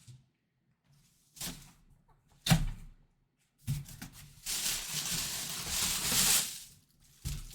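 Handling sounds as a full-size football helmet is unpacked: two knocks against the box, then a few seconds of plastic wrapping crinkling and rustling.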